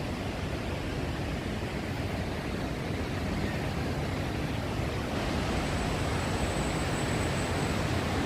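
Rushing water from the waterfall and river, a steady noise that grows louder and brighter about five seconds in.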